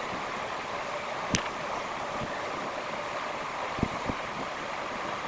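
Steady background hiss with a few sharp clicks: one about a second and a half in, two more close together near four seconds.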